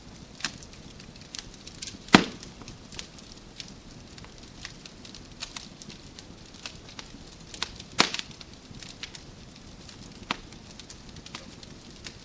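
Wood fire in a fireplace crackling, with scattered sharp snaps over a soft steady hiss and two louder pops from the burning logs, about two seconds in and again near eight seconds.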